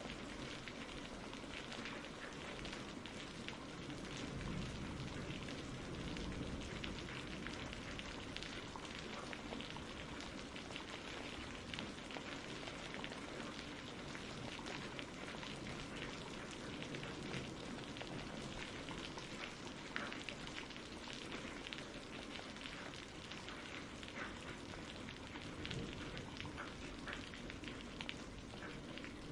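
Steady rainfall: an even hiss of rain with a fine patter of individual drops.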